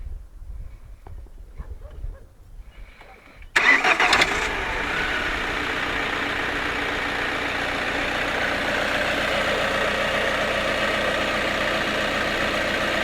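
Ford Focus 1.8 TDCi four-cylinder turbodiesel engine cranking and catching about three and a half seconds in, with a brief clatter as it fires, then idling steadily. The owner reports a strange metallic sound from this engine on starting and stopping.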